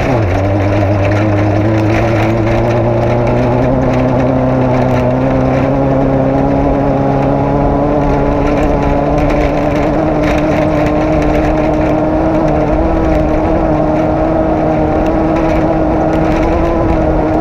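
Off-road race car engine running hard and loud. Its pitch drops sharply at the very start, then climbs slowly over the first few seconds and holds steady.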